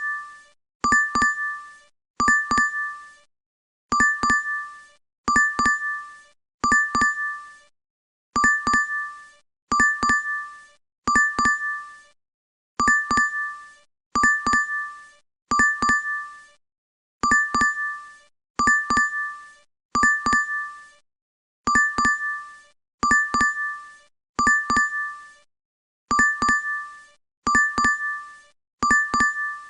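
DoorDash app notification chime, a quick two-note ding repeated over and over, about once every second and a half.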